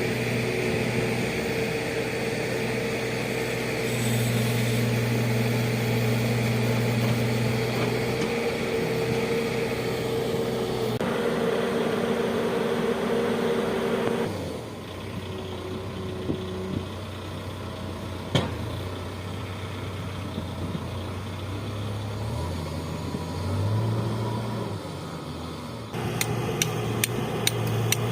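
A vehicle engine running steadily with a low hum. The sound changes abruptly about halfway through, and a quick run of sharp clicks comes near the end.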